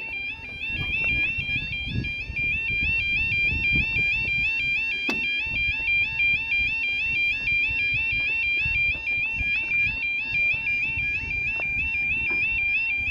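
Railway level crossing warning alarm sounding its steady yodel, a rapid two-tone warble repeating several times a second, over a low rumble of wind noise. A single click comes about five seconds in.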